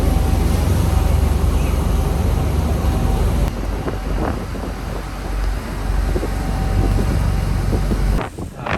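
Tour boat's engine running at speed, a loud steady low rumble with wind buffeting the microphone; the rumble cuts off suddenly near the end.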